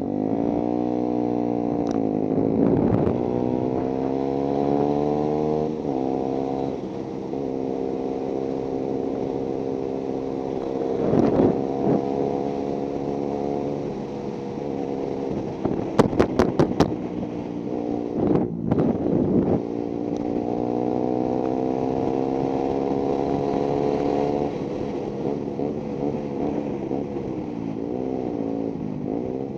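Motorcycle engine pulling through the gears, its pitch climbing under acceleration and dropping suddenly at each shift, with steady cruising stretches in between. About halfway through there is a quick run of sharp clicks, the loudest moment.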